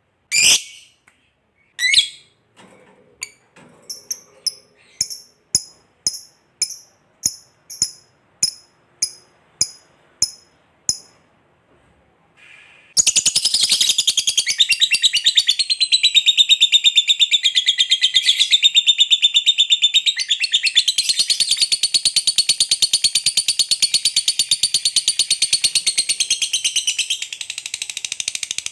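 Lovebird calling: a few sharp high squeaks, then a run of short chirps about two a second. About 13 seconds in, it breaks into a long, unbroken, rapid high chatter (the 'ngekek' trill).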